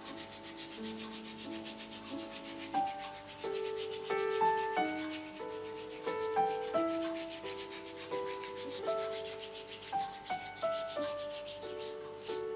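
Quick, even scraping strokes, something being rubbed or scraped over and over, with soft piano music underneath.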